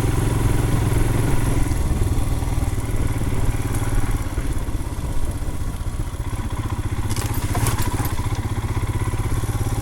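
Royal Enfield Himalayan's single-cylinder engine running steadily on a rough trail, with a few sharp clattering knocks about seven to eight seconds in.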